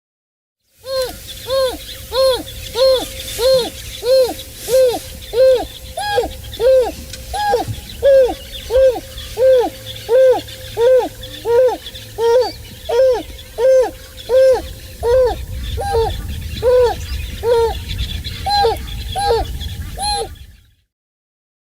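African wild dog calling: a long, even series of short, arched hooting calls, about one and a half per second.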